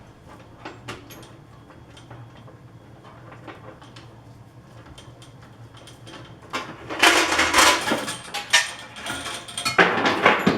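Metal parts of a drill press being handled: a few faint clicks, then about seven seconds in a loud run of metal clattering, scraping and knocks lasting about three seconds.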